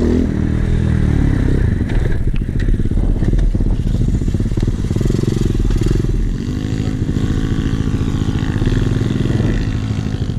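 Trailmaster 125cc Chinese pit bike engine running hard under a rider, its pitch rising and falling as the throttle is rolled on and off. About six seconds in, the pitch drops and then holds steadier.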